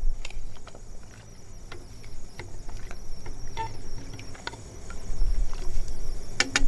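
Wood campfire crackling with sporadic sharp pops, over a low rumble and a faint steady high insect buzz.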